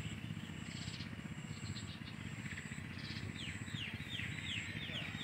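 A bird calling a quick run of about eight short notes, each sliding downward, starting a little past halfway. Under it is a low steady outdoor rumble, with a thin high tone that comes and goes.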